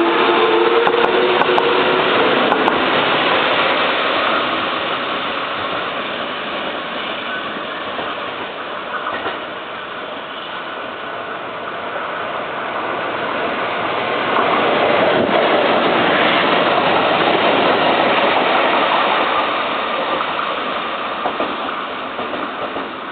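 Kintetsu electric trains at the station: a falling motor whine fades out in the first couple of seconds, then the steady rushing noise of the cars running. The noise eases off midway, swells again about fourteen seconds in and dies down toward the end.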